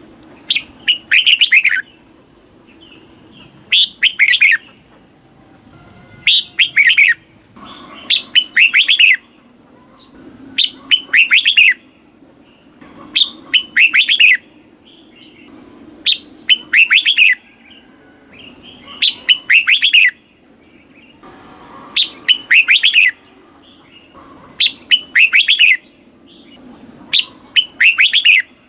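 Red-whiskered bulbul singing: short, loud phrases of several quick whistled notes, repeated about every two to three seconds.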